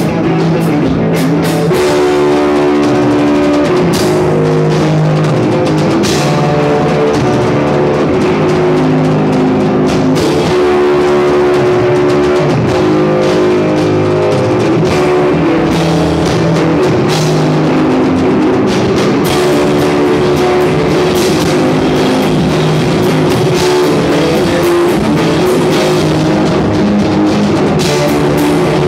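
A rock band playing, with electric guitar and drum kit, loud and steady.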